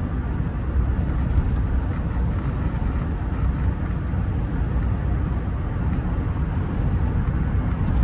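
Rolls-Royce Silver Spirit III on the move, heard from inside the cabin: a steady low rumble of road and engine noise.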